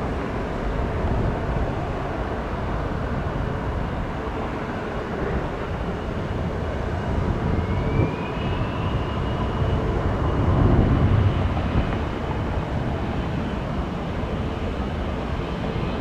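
Jet airliner engines running on takeoff with a steady rumble. About eight seconds in, a high whine rises in pitch, and the rumble is loudest a few seconds later.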